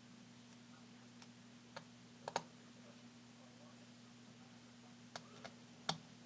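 Small sharp clicks and taps of a precision screwdriver and tiny screws against an iPhone 5s frame during reassembly, about six in all, the loudest a quick double click a little over two seconds in and another near the end, over a faint steady low hum.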